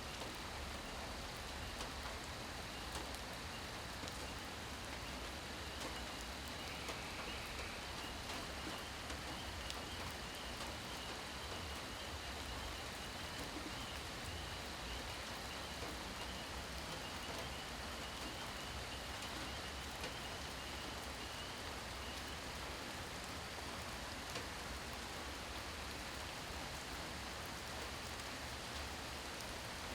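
Steady rain falling, an even patter of drops with no breaks. A faint high, rapidly pulsing call sounds behind it and stops about two-thirds of the way through.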